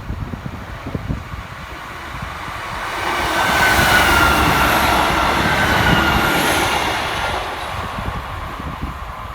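A train passing by: its noise swells about three seconds in and fades away near the end, with high whining tones that drop slightly in pitch as it goes past. Wind buffets the microphone at the start.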